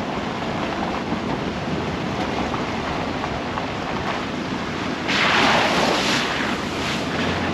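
Truck driving on a park road: steady tyre and road noise, with a louder rushing hiss for about a second, starting about five seconds in.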